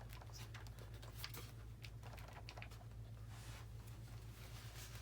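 Faint scattered clicks and light taps of wires and plastic model parts being handled and pushed into place, over a steady low hum.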